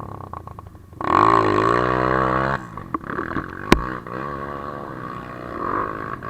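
Off-road vehicle engine revving hard while working through mud, loudest for about a second and a half starting about a second in, its pitch dipping and climbing. A single sharp knock comes near the four-second mark.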